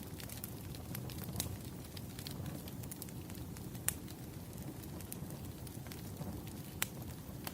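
Wood fire burning in a fireplace: a steady low rumble with scattered sharp crackles and pops, the sharpest about four seconds in and near the end.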